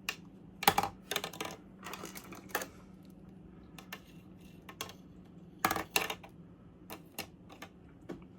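Small hard objects knocking and clattering as they are put into a plastic desk organizer, in irregular clicks and short rattles with a few louder clusters, over a faint steady hum.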